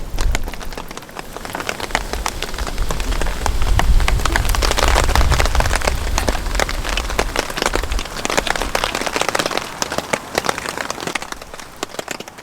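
Heavy rain, many separate drops striking a surface, with a low rumble of wind gusting against the microphone that swells in the middle and eases off near the end.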